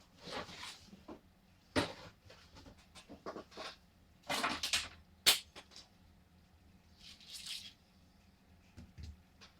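Handling noises on the workbench: short rustles and light knocks as a 6-inch triaxial speaker is turned over, with a sharp click about five seconds in.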